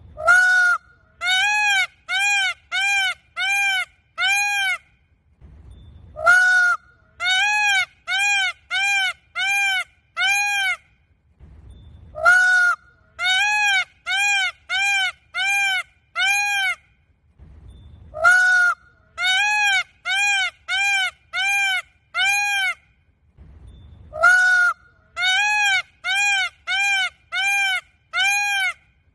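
A bird calling in a fixed repeating phrase: one long note followed by six short notes that each rise and fall in pitch, the whole phrase recurring about every six seconds.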